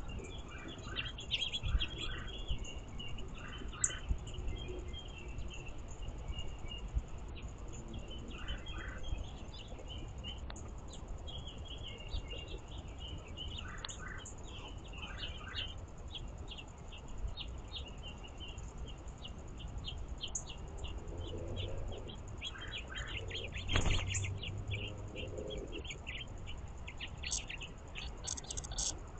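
Small songbirds chirping and calling in many short, repeated notes, over a low rumble and a steady faint high-pitched tone. A sharp click about 24 seconds in.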